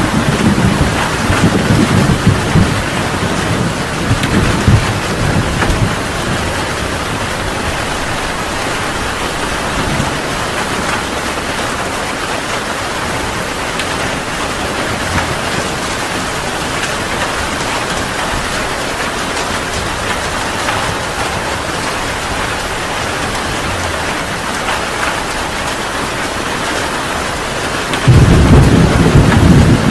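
Heavy rain falling steadily. Thunder rumbles at the start and fades over the first few seconds, and a new loud thunder rumble breaks in suddenly near the end.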